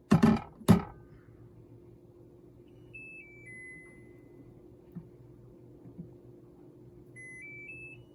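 Two metal clinks of silverware at the start, then an appliance's electronic chime: four short notes stepping down about three seconds in, and four notes stepping up near the end, over a faint steady hum.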